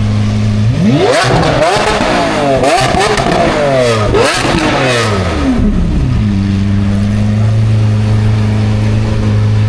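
A car engine idling, revved several times in quick succession, its pitch climbing and falling with each blip, then settling back to a steady idle.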